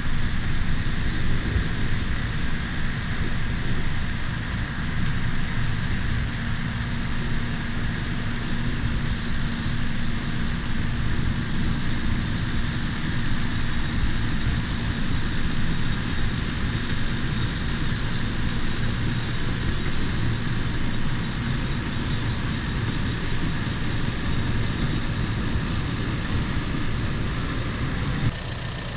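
Bulldozer's diesel engine running steadily under load with the rumble of its tracks. The sound drops suddenly near the end.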